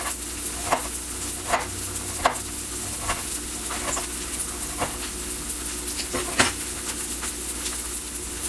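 Knife slicing through a Roma tomato and tapping on the cutting board, about one sharp cut every second, over the steady sizzle of breaded milanesa frying in oil.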